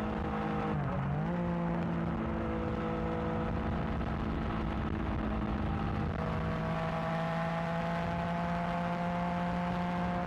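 Yamaha XSR900's inline three-cylinder engine running through its new exhaust while riding at a steady pace. About a second in, the pitch dips briefly and recovers, and over the second half it rises slowly.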